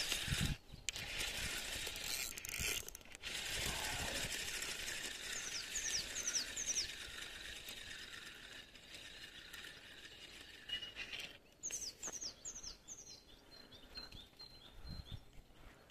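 A songbird singing twice, each phrase a run of about five quick, high, descending notes, over a steady outdoor hiss. There are a few low knocks near the start.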